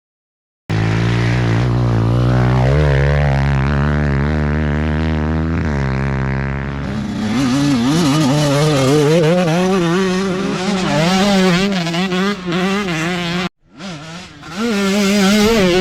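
Several small dirt bike engines idling, then revving up and down in repeated throttle blips. The sound cuts out abruptly about thirteen seconds in and comes back half a second later.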